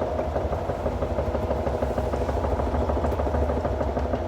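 Hoover washing machine on a fast spin, the drum rumbling loudly under a steady hum with a fast, even pulse. The drum bearings are plainly audible, a sign of an old, worn machine.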